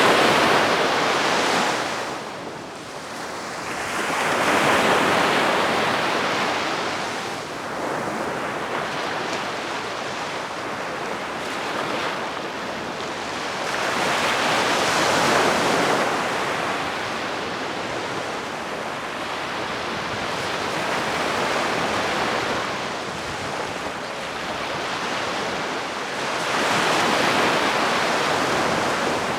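Calm sea waves washing onto the shore, each wave swelling into a soft rush of surf and fading away every several seconds.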